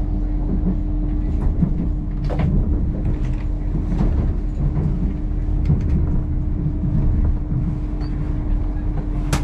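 Inside the passenger cabin of a Hitachi Class 802 train on the move: a steady low rumble of wheels on rail under a constant hum, with a few sharp clicks and knocks from the track.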